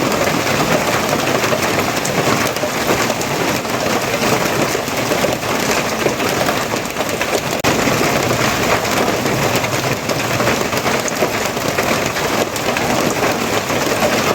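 Steady heavy rain falling in a dense, even patter, with a momentary drop in level about halfway through.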